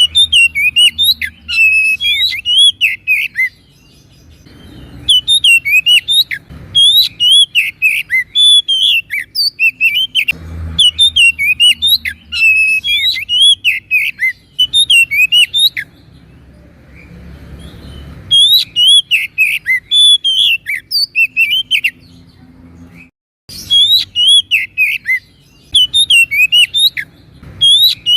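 Oriental magpie-robin (kacer) singing a fast, continuous song of varied whistled and chirping notes, broken by a few pauses of a second or two.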